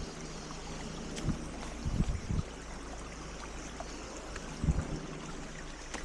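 Steady rush of flowing stream water, with a few dull footsteps on the trail, one at a time.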